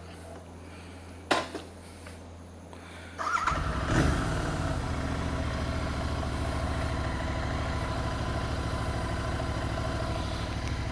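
Royal Enfield Interceptor 650 parallel-twin engine being started about three seconds in, catching with a brief rev and then idling steadily. Before it there is a low steady hum and a single sharp knock.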